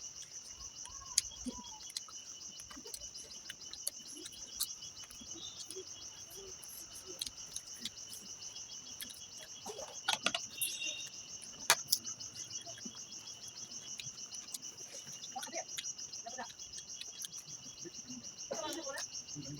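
Steady chorus of crickets trilling high and unbroken, with scattered sharp clicks and short eating sounds on top, the loudest clicks about a second in and around ten and twelve seconds.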